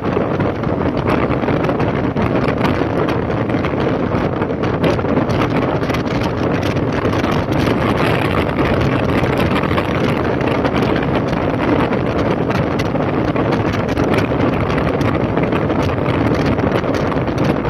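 Wind buffeting the microphone on a moving motorcycle, with a 2005 Honda CB1300's inline-four engine running steadily under it.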